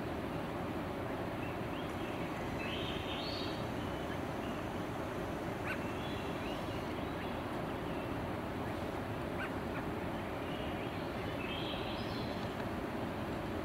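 Steady background hiss with a small bird singing short chirping phrases twice, about three seconds in and again near the end.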